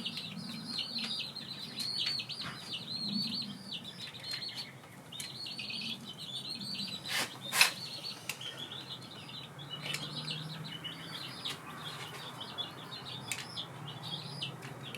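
Small birds chirping rapidly and continuously, with two sharp clicks close together about seven seconds in.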